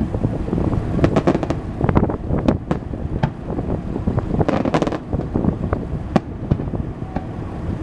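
Aerial fireworks going off in rapid volleys: sharp cracks and booming bursts, some in quick crackling clusters, over a steady low rumble with wind buffeting the microphone.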